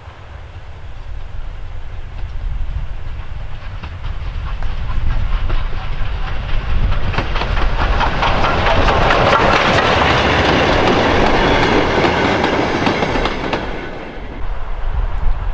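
Steam locomotive hauling a short train of goods wagons approaches and passes close by. Wheels clatter over the rail joints, growing louder and peaking as the wagons go past, then the sound drops abruptly near the end.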